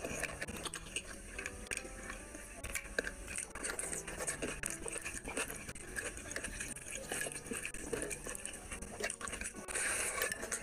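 Close-miked eating of rice and curry by hand: wet chewing and mouth smacks, with squishing as fingers mix rice and gravy on the plate, heard as a steady run of short wet clicks.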